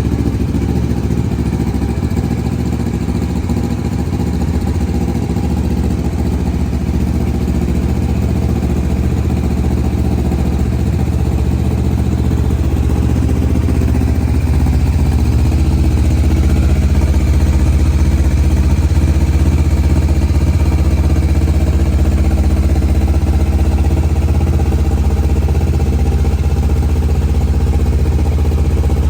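Kawasaki Versys 650's parallel-twin engine idling steadily, growing a little louder about halfway through.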